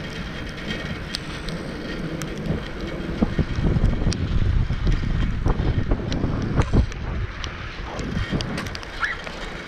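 Wind buffeting the microphone of a GoPro on a moving bicycle, a low rumble that grows louder for a few seconds in the middle, with scattered small clicks and rattles.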